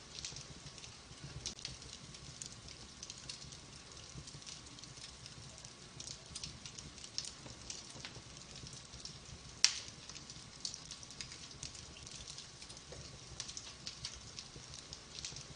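Wood fire in a fireplace crackling, with scattered small snaps over a soft steady hiss and one sharp loud pop about two-thirds of the way through.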